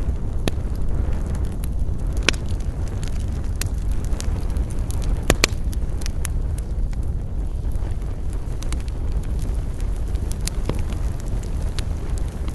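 Campfire burning: the wood crackles and pops here and there over a steady low rumble, with the sharpest pair of pops about five seconds in.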